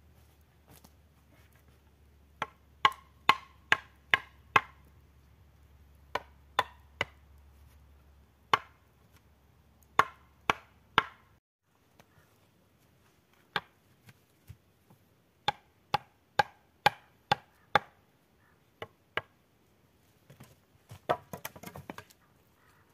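Repeated sharp blows of a tool striking wood, in runs of several strokes about two a second, with a short clatter of lighter knocks near the end.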